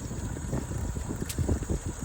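Wind buffeting the microphone while riding a bicycle, a gusty low rumble that swells about one and a half seconds in, with a faint click just before.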